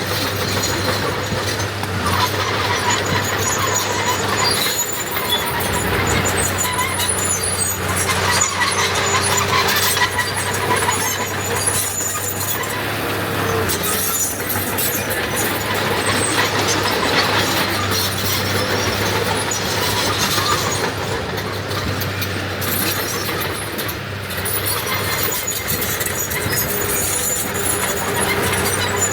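Earthmoving machinery at work: a diesel engine running steadily, with metallic squealing and clanking on top.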